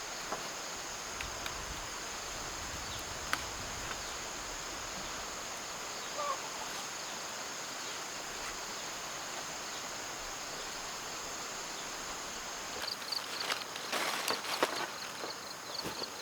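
Steady high-pitched insect drone over outdoor hiss. Near the end, rustling and a few light knocks join in, with a quick repeated high chirping.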